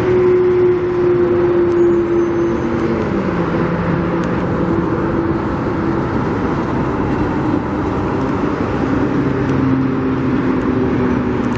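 Steady traffic and engine noise, with a motor's hum that drops in pitch about three seconds in.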